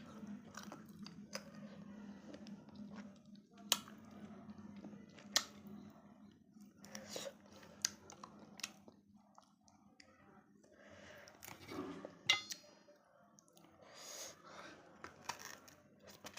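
Close-miked chewing of goat mutton on the bone, soft and wet, broken by scattered sharp clicks and crunches as the teeth meet bone.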